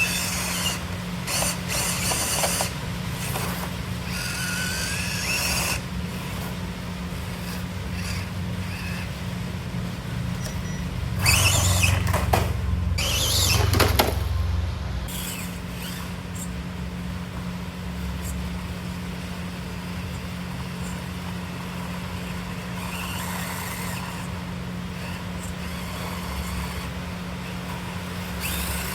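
Small electric motors and gearboxes of mini RC crawler trucks running under a steady hum, with irregular scraping and rubbing bursts as the trucks crawl over the course. The sound is loudest for a few seconds around the middle.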